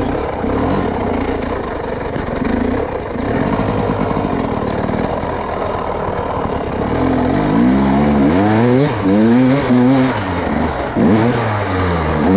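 Off-road vehicle engine running steadily, then from about seven seconds in revved up and down several times in quick swells.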